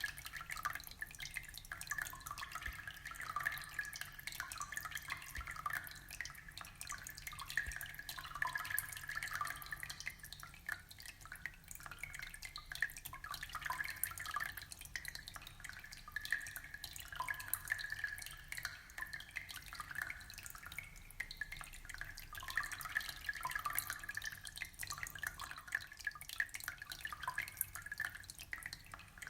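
Aquarium water trickling and dripping steadily, a dense run of small drips and splashes with no pause.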